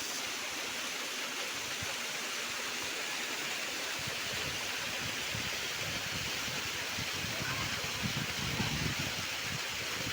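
Fresh water of a mountain stream rushing steadily over its bed, with some low bumps in the second half.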